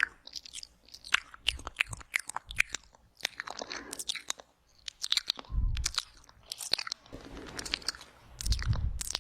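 Wet ASMR mouth sounds: quick clicks and smacks of lips and tongue. There are low muffled thumps about halfway through and again near the end.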